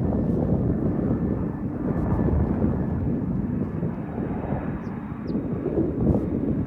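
Jet airliner engines, heard as a steady rumble with a faint thin whine above it.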